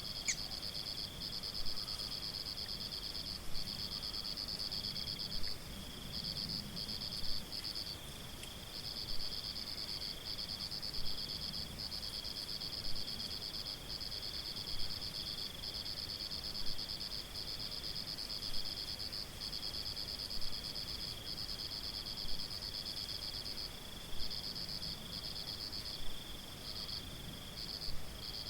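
Crickets trilling in long, steady high-pitched runs broken by short gaps, with a second, lower trill beneath. A small regular pulse rises over them about every two seconds.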